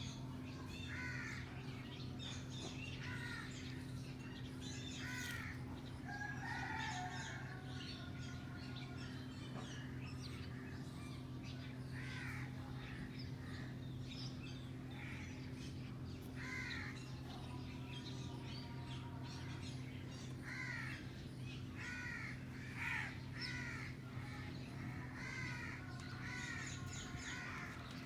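Green ringneck and Alexandrine parakeets calling: many short squawks, one after another, busiest near the start and again in the last third. A steady low electrical hum runs underneath.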